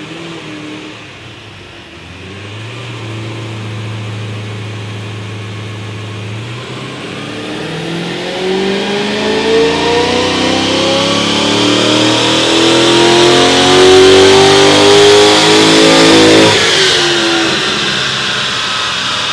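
2008 HSV Clubsport's 6.0-litre LS2 V8, breathing through extractors and a dual exhaust, running a power run on a chassis dyno. It holds at low revs for several seconds, then the revs climb steadily for about nine seconds to their loudest. About 16 seconds in they drop away quickly as the throttle closes.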